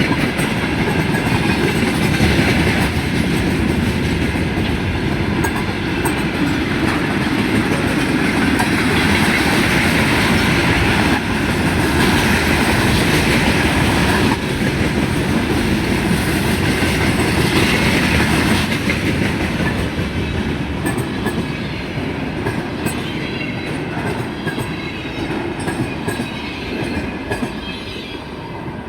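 A freight train's wagons rolling past, a steady rumble with the wheels clattering over the rail joints. The noise fades away over roughly the last ten seconds as the train recedes.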